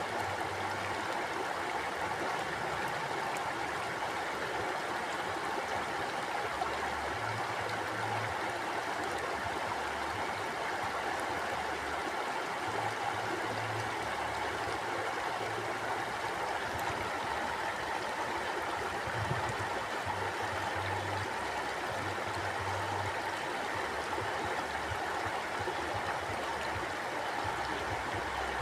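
A small river or stream flowing steadily over rocks: an even rush of water with gurgling, no change in level.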